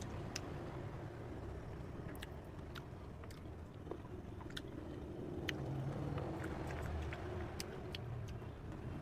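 Close mouth sounds of someone eating cherries: wet clicks and smacks of chewing, scattered irregularly. Under them runs a steady low rumble.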